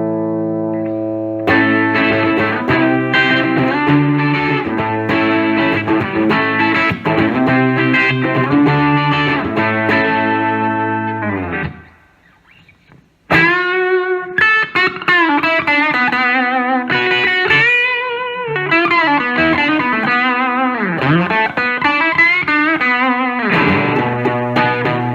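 Electric guitar with a Fat Bottom humbucker in the bridge position, played through a Fender Vibrolux Reverb amp with a touch of overdrive from a Zvex Box of Rock pedal. Chords ring out, then a short pause about twelve seconds in, then a single-note lead with bends and vibrato, and chords again near the end.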